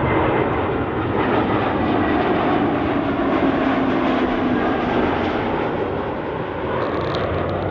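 A landing jet airliner passing by, its engines a steady, loud roar with a low tone that slides down in pitch as it goes past.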